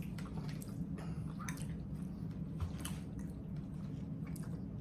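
Close wet chewing and mouth sounds of someone eating beef liver in gravy: scattered soft smacks and clicks over a steady low hum.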